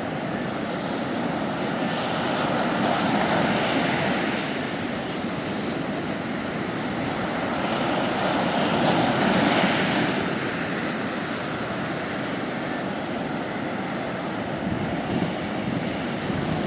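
Sea waves breaking and washing onto the beach, a steady rush that swells twice, about three seconds in and again about nine seconds in.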